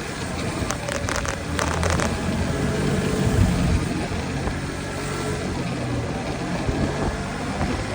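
A motor vehicle engine running at a steady speed, with traffic noise and a few short clicks about a second in.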